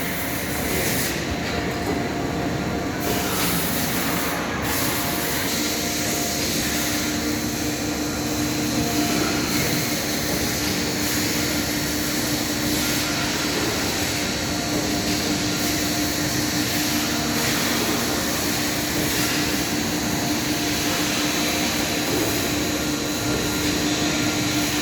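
Automated production-line machinery (inspection, laser-engraving and palletizing equipment) running with a steady mechanical rumble; a steady hum and a faint high whine join in about five or six seconds in.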